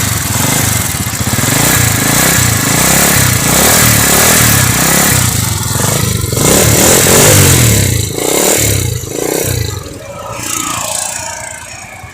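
Dayang Runner Deluxe 80 cc motorcycle engine, just started on its electric starter, running and revved in repeated blips, then easing back and quieter over the last few seconds.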